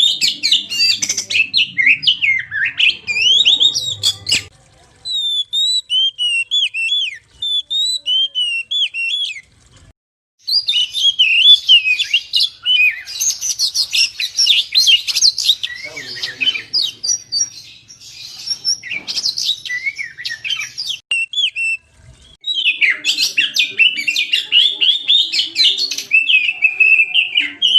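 Oriental magpie-robin (kacer) in full song: rapid, varied whistles and chattering phrases, in long runs broken by a few short pauses.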